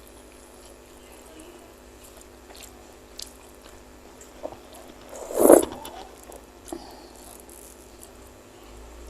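Close-miked eating sounds from a person eating meatballs: quiet chewing with scattered small mouth clicks, and one louder, longer mouth sound about five and a half seconds in.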